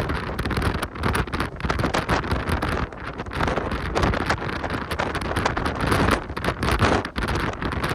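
Strong wind buffeting the microphone in uneven gusts, a loud rushing rumble with brief dips between gusts.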